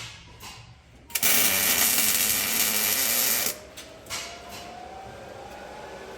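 A handheld power tool runs for about two and a half seconds with a loud, hissing whir, then stops abruptly. A faint whine rising in pitch follows.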